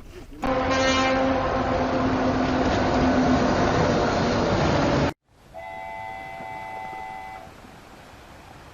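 A loud horn blares over a heavy rushing noise for about four and a half seconds and cuts off suddenly. Then a quieter horn sounds a chord of several notes, held for about two seconds.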